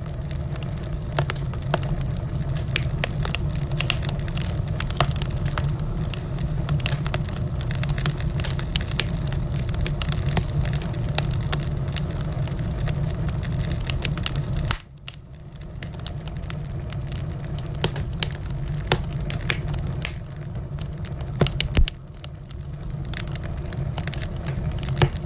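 Wood fire in a fireplace crackling and popping with many sharp snaps over a steady low roar. The sound drops off abruptly about fifteen seconds in and again about seven seconds later, each time building back up.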